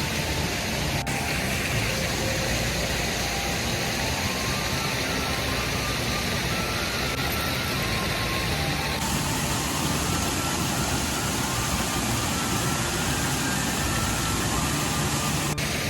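Waterfall and rushing stream water, a steady, even roar of noise with no break; the higher hiss thins slightly about nine seconds in.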